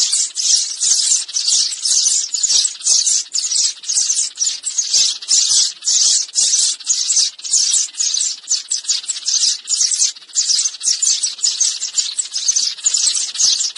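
Sparrows chirping in a steady, unbroken run of short, high chirps, about three a second, played as a lure call to attract sparrows.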